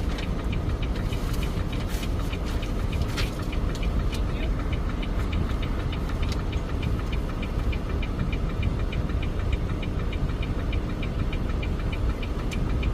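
Semi truck's diesel engine idling steadily, with a fast, even ticking riding on its low rumble, about four to five ticks a second.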